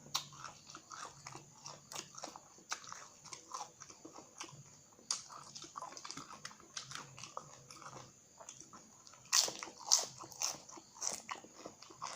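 Close-up crunching and chewing of crisp fried cassava chips, a dense run of short sharp crunches with the loudest bites about nine to ten seconds in.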